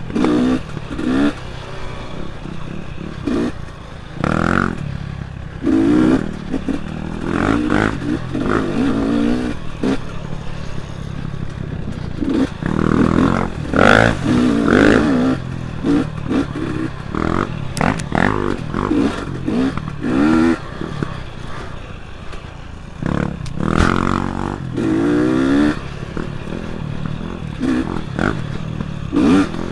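Dirt bike engine revving up and falling back again and again, the pitch rising and dropping every second or two, with frequent short knocks and rattles from the bike over rough ground.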